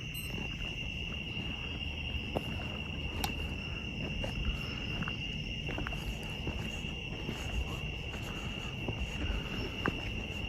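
Night-time insect chorus: a steady, high-pitched drone of crickets, with a few faint clicks and a low rumble underneath.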